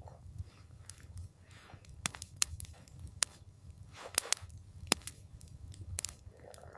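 Wood campfire crackling: irregular sharp pops and snaps, several of them loud, over a steady low rumble.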